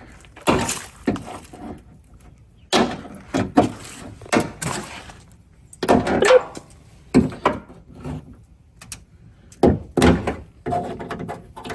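Plastic trim clips being pried and popped out of a 1998 Dodge Ram 1500's door panel: a run of separate knocks, clicks and scrapes at uneven intervals, some with a short rattle.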